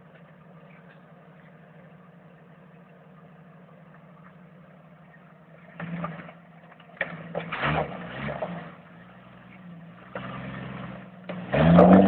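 Jeep Cherokee XJ's engine idling low, then revved in short bursts from about six seconds in, the last and loudest near the end as it pulls the Jeep up a rock ledge.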